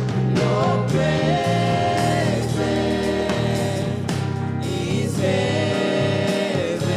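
Gospel worship music: voices singing over a band, with two long held notes, one about a second in and one past the middle.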